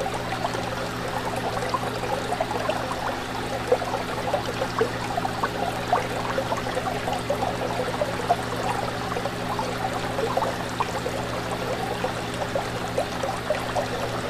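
Fish tank water bubbling and trickling without a break, a dense patter of small bubble pops, over a steady low hum.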